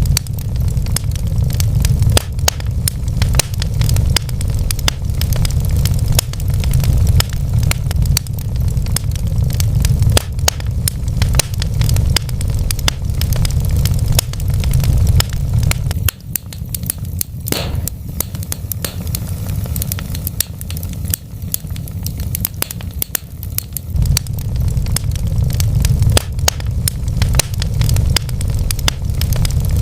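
Wood fire burning in a fireplace: many small sharp crackles and pops over a steady low roar, with one louder pop about seventeen seconds in.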